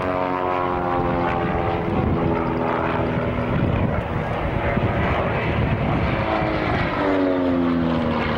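Piston engines and propellers of Pitts S-2B aerobatic biplanes flying past. The engine pitch drops as one pass goes by in the first few seconds, and again as another comes through near the end.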